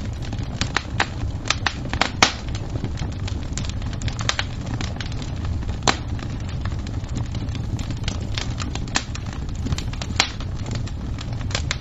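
Wood fire crackling, with irregular sharp pops, the loudest about two, six and ten seconds in, over a steady low rumble.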